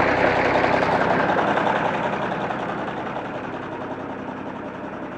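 John Deere 4630 tractor's six-cylinder turbo diesel running steadily, its noise easing off gradually over the few seconds.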